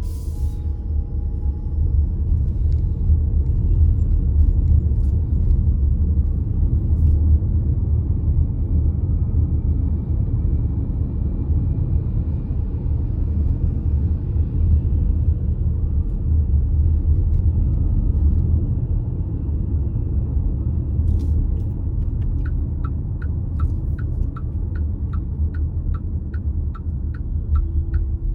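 Steady low rumble of a car's engine and road noise heard from inside the cabin while driving. Near the end the turn-signal indicator starts ticking, about two clicks a second.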